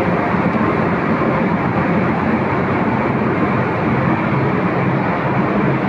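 Steady, loud drone of a passenger car ferry's engines and machinery, heard aboard the ship.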